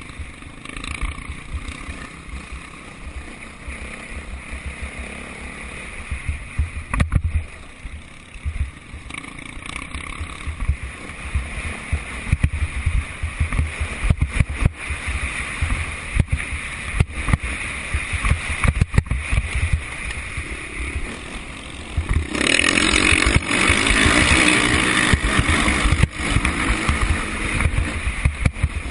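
Motocross dirt bike engines running and revving on the track, with wind gusting on the microphone. About 22 seconds in the engine noise gets much louder for about four seconds.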